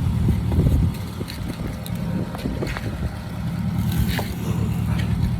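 Steady low rumble of a vehicle running, with wind on the microphone and scattered light clicks and taps.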